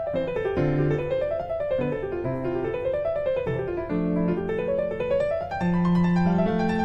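Background piano music: quick runs of notes rising and falling over a slower bass line.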